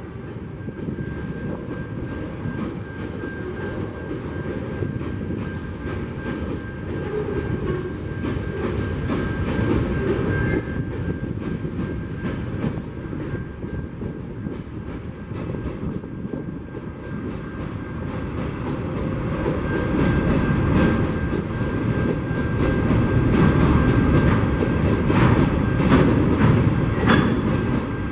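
Freight wagons rolling past on the rails: a steady rumble of steel wheels on track, growing louder in the last third as hopper wagons go by, with a run of sharp clacks over the rail joints a few seconds before the end.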